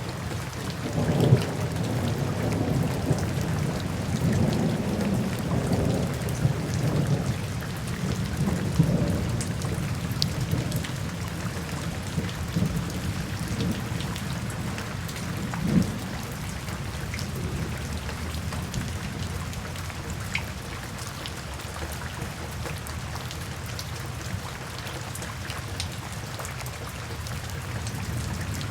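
Steady rain falling, with scattered drop ticks over an even hiss. A low rolling rumble underneath swells in the first few seconds, then eases off over the next ten seconds.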